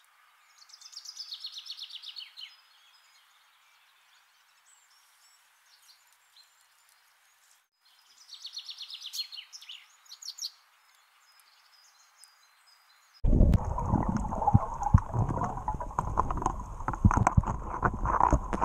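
Two high, fast songbird trills over a quiet background, the first near the start and the second about eight seconds in. From about thirteen seconds in, a much louder rough noise full of sharp knocks takes over.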